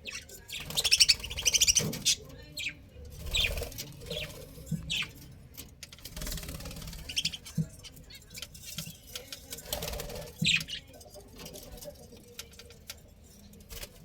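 Small birds chirping in short, scattered calls, with a few louder bursts of rustling noise, the loudest about a second in.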